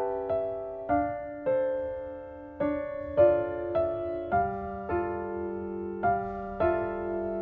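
Background music: a gentle solo piano piece, single notes and chords struck about once or twice a second, each ringing and fading.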